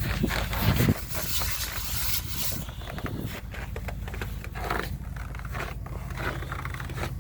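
Irregular footsteps and camera handling noise over a steady low hum.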